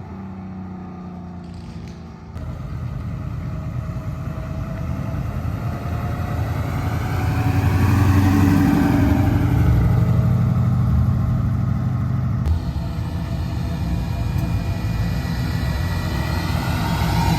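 Car engines running as vehicles move past, the sound swelling to its loudest from about eight to twelve seconds in, with a rise and fall in pitch in the middle.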